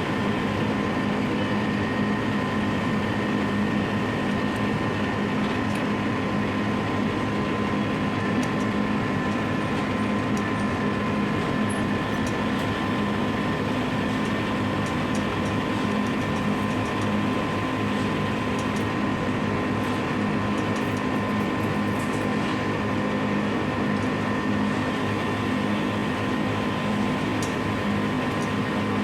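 Air conditioner unit running with its compressor and fan on: a steady, even hum with a constant higher tone over it and no change throughout.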